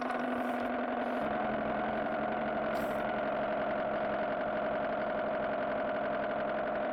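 Car engine sound idling steadily: an even hum with a strong mid-pitched drone. A lower tone drops away about a second in.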